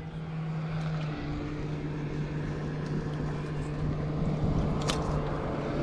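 Boat motor running steadily with an even hum, its pitch stepping slightly about a second in. A single sharp click sounds near the end.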